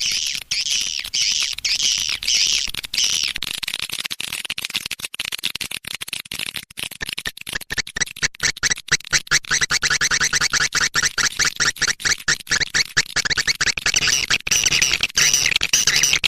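Swiftlet lure call playback: recorded edible-nest swiftlet chirps repeated about two or three times a second, then from about seven seconds in a fast run of rapid chirping clicks, with a low steady hum under it from about ten seconds in.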